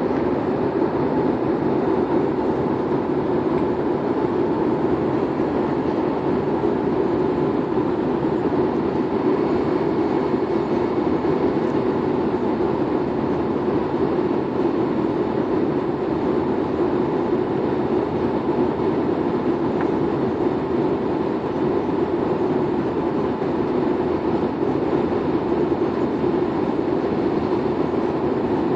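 Steady airliner cabin noise heard from inside the cabin in flight: jet engines and rushing airflow as an even, deep roar with a faint steady hum above it.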